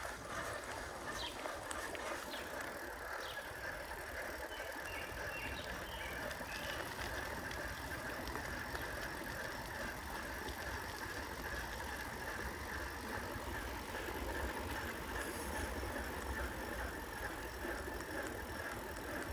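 Steady rolling noise of a bicycle being ridden on the road, with wind rumbling on the microphone.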